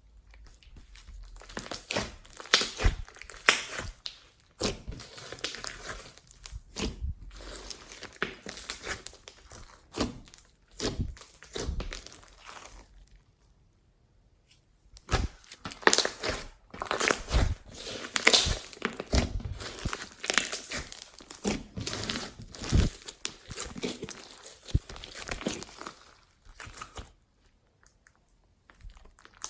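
Slime being squeezed, folded and stretched by hand, giving dense runs of small sticky clicks and crackles, with a pause about halfway through and another near the end.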